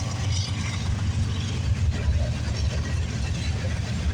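CN freight train passing close by, a steady low rumble with no horn or single distinct events.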